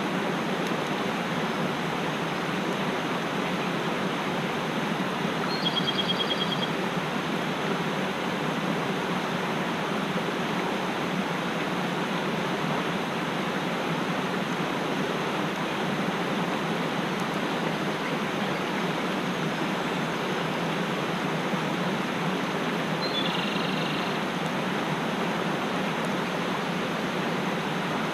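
Mountain stream rushing steadily. A small bird gives a short trilled call about six seconds in, and again later.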